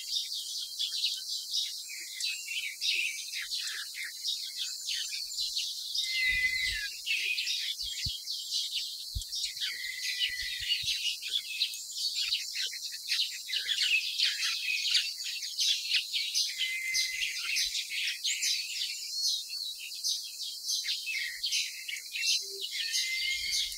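Many small birds chirping and twittering together, with a short, steady whistled note recurring every few seconds.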